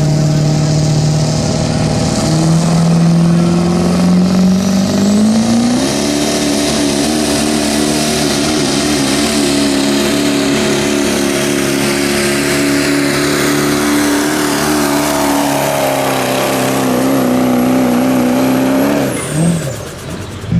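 A pulling truck's engine at full throttle dragging a weight-transfer sled. The revs step up about two seconds in and climb again to a high, steady pitch held for most of the run. They fall away near the end as the truck lets off.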